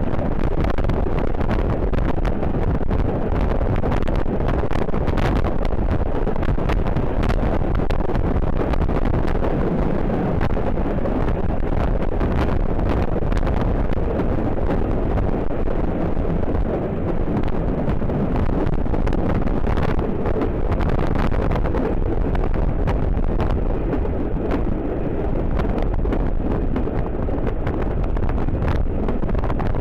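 Steady low rumble of a moving heritage railway train, with heavy wind buffeting the microphone.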